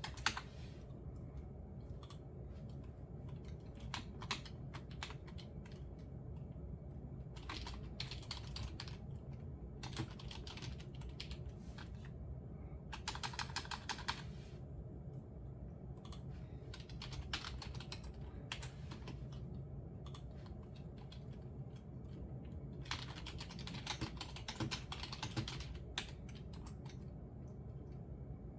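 Typing on a computer keyboard in short runs of keystrokes separated by pauses, with a fast, dense run about halfway through.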